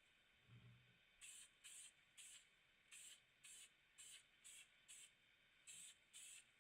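Faint short squirts of a Tamiya aerosol primer spray can, about ten quick hissing bursts, roughly two a second.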